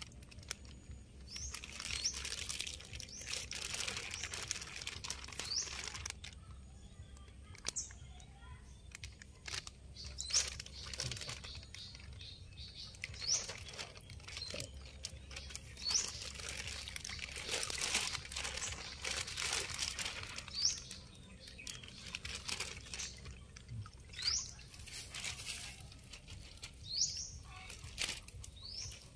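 A small bird chirping: short, high, upward-sweeping chirps repeated every second or few, with stretches of splashing and crinkling between them from water and the plastic bag as fingerlings are let out into the pond.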